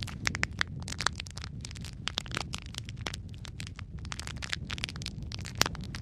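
Wood fire crackling in a fireplace: many quick, sharp pops and snaps over a steady low rumble of burning, with one louder pop near the end.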